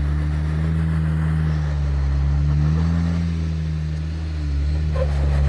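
An off-road vehicle's engine running loud and low under light throttle, its pitch rising gently a couple of times as it is given gas over wet slickrock.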